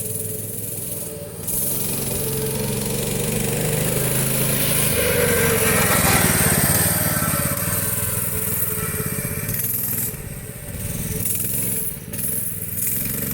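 Baja MB 200 mini bike's small single-cylinder engine running under way, building to its loudest about six seconds in, then easing off with brief drops in throttle near the end.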